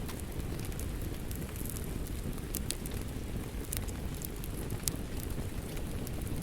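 Wood fire crackling in a fireplace: a steady low rumble of burning with sharp pops and snaps at irregular moments, a few of them louder.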